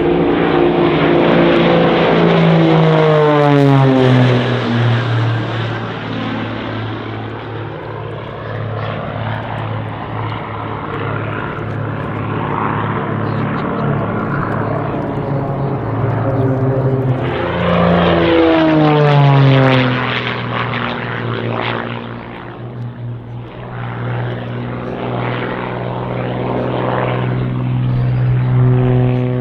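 Propeller aerobatic planes of a formation display team flying past, their engines running loud. The engine note drops sharply in pitch as they pass, about three seconds in and again around eighteen seconds, then holds steady.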